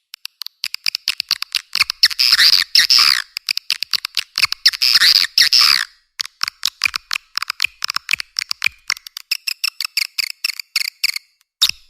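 Swiftlet lure call recording: rapid, high-pitched twittering chirps and clicks of swiftlets, with two longer buzzy chattering trills in the first half, then sparser chirps. This is the kind of call sound played in swiftlet houses to draw the birds in.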